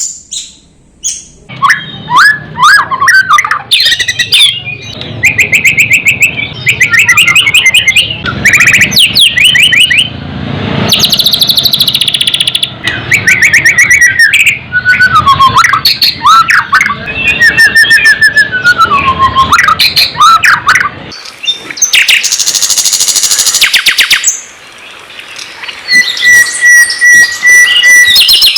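A songbird singing a loud, varied song: fast trills and rattling runs of repeated notes, clear whistled notes gliding up and down, and near the end a steady held whistle with quick notes over it.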